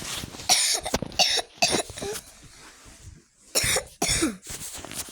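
A person coughing repeatedly in short, harsh coughs: a run of several in the first two seconds, then another two near the middle.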